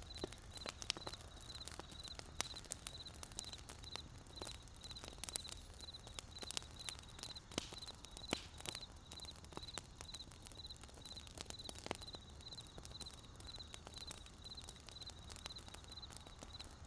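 Wood fire crackling: irregular sharp pops and snaps over a soft low rush of burning, with a steady high chirp repeating about four times a second.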